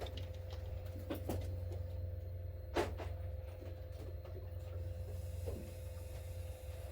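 Steady low mechanical hum with a steady tone above it, and a few light knocks and clicks, the sharpest about three seconds in.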